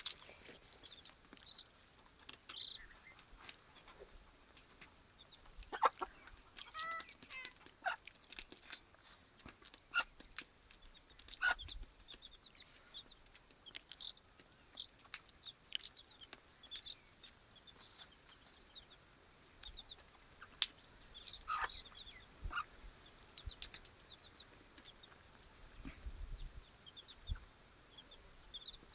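A domestic hen with her chicks: short, high peeps from the chicks repeat throughout, with a few lower calls from the hen and scattered sharp clicks.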